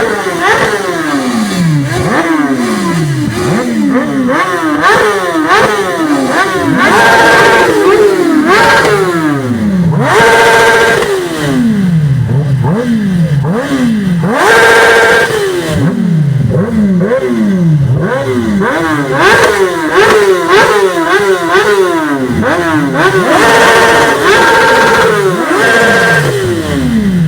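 Several superbikes revving hard and passing one after another. Each engine note climbs and then drops steeply, with several bursts held at high revs, the loudest about ten and fifteen seconds in.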